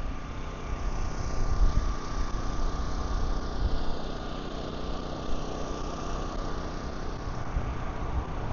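An engine running steadily at idle, with a faint steady whine and an uneven low rumble underneath.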